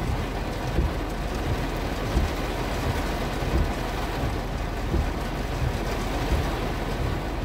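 Heavy rain drumming on a car's roof and windshield, heard from inside the cabin as a steady hiss, with irregular low thumps.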